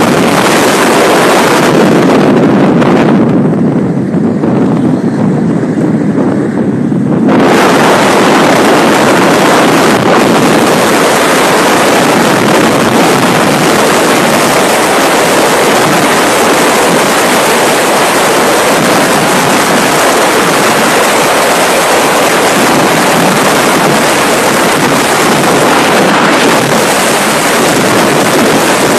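Loud, steady rush of wind buffeting the microphone at sea, with no clear tones. The high hiss drops away for a few seconds a few seconds in, then comes back.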